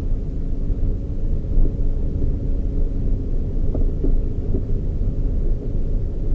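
Toyota Raize GR small SUV on the move: a steady low rumble of engine and road noise, with a faint steady hum running through it.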